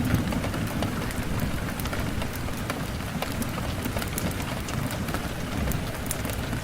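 Steady rain with a low rumble underneath, dotted with scattered sharp crackles and pops from a wood fire.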